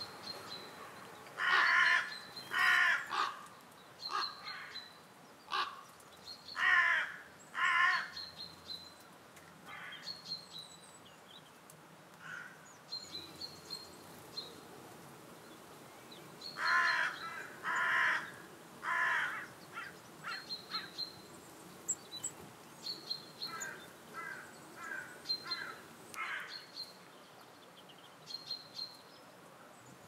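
Wild birds calling. A large bird gives rough caws in groups of two or three, several times, while small birds repeat short thin high calls throughout.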